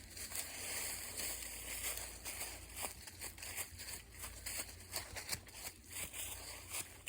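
Footsteps crunching and rustling on a leaf-strewn woodland trail, a quick irregular run of crackles.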